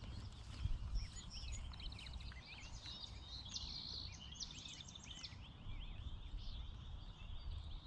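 Several birds chirping and singing in short calls and trills over a low, steady background rumble.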